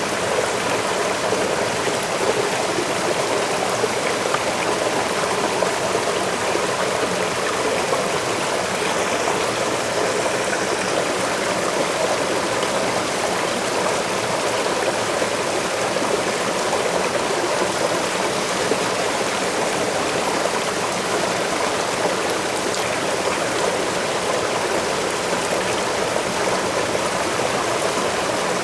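Waterfall pouring steadily: an even, continuous rush of falling water.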